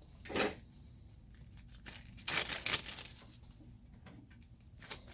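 A bag crinkling and rustling in short bursts as small parts are handled and put into it.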